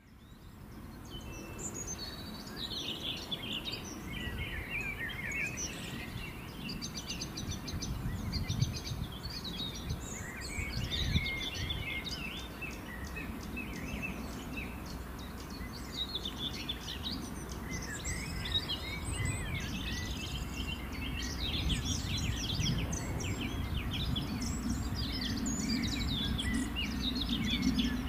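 Small songbirds singing and chirping continuously in quick trills, over a low steady background rumble that swells slightly near the end.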